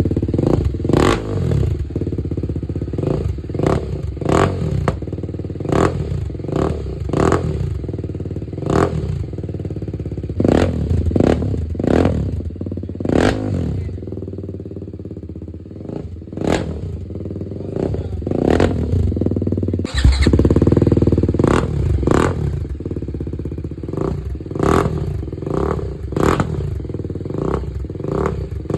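BMW G 310 RR's single-cylinder engine idling through a loud exhaust and revved in quick, repeated throttle blips, roughly one a second. The blips ease off briefly about halfway, and the engine note steps up suddenly louder about two-thirds of the way in.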